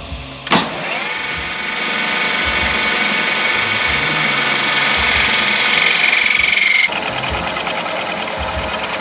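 A powered machine tool starts with a knock about half a second in, spins up briefly and runs with a steady whine. About seven seconds in the sound changes suddenly to a rougher buzz.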